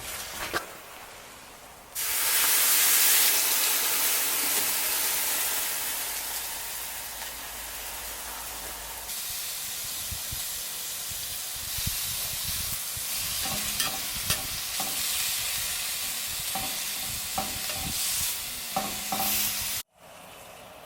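Food sizzling in a hot pan. The sizzle jumps louder about two seconds in, with scattered clicks of utensils in its later part, and cuts off abruptly just before the end.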